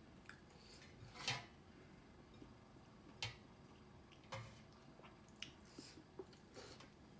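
Wet eating sounds: a few brief squishes and smacks as soft kodo (finger millet) dhido with curry is chewed, with quiet between them.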